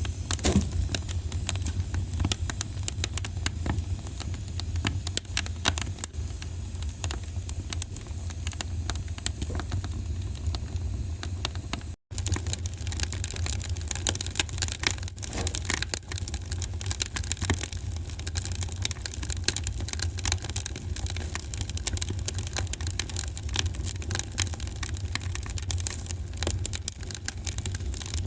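Wood fire crackling, with many small irregular pops over a steady low rumble. A split-second gap comes about twelve seconds in.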